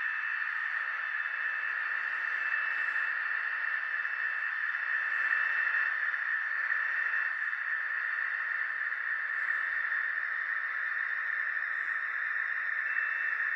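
HO-scale model diesel locomotive with digital sound running: a steady, thin, hissing drone from its small onboard speaker and motor, with a faint high whine that comes and goes.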